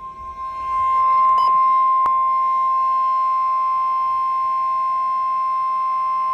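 NOAA Weather Radio warning alarm tone: a steady, single high beep at about 1050 Hz from a weather radio receiver, getting louder about a second in. It signals that a warning broadcast follows, here a severe thunderstorm warning. A faint click about two seconds in.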